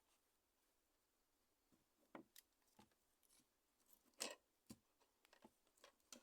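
Faint, irregular clicks and light taps of small tools and phone parts being handled during a mobile phone repair, about a dozen, the loudest a little past the middle.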